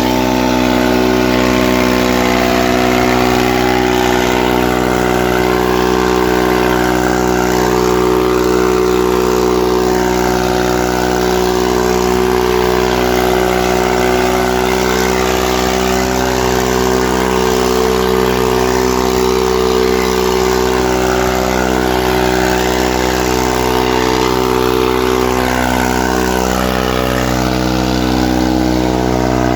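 Farmtrac 45 tractor's diesel engine running loud and steady at a constant speed.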